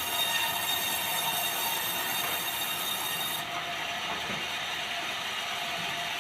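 Sawmill saw running with a steady, many-toned whine; the highest part of the sound drops away about three and a half seconds in.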